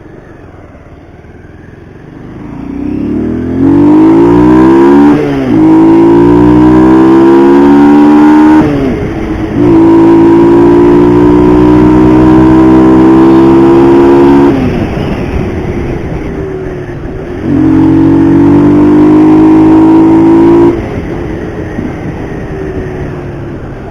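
Motorcycle engine, close and loud, pulling away and rising in pitch with a gear change about five seconds in and another about nine seconds in, then held at steady speed. It eases off, pulls hard again for a few seconds, and backs off to quieter running near the end.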